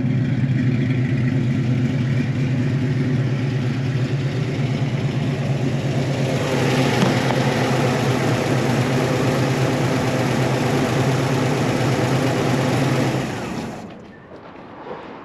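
Chevy 350 small-block V8 with a mild cam running at a steady idle. The sound grows brighter about six seconds in, then stops abruptly near the end.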